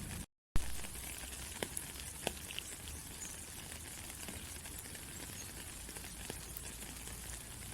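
Steady rain falling, a dense even hiss with scattered ticks of single drops. Just after the start the sound cuts out for a moment and comes back with a sharp click.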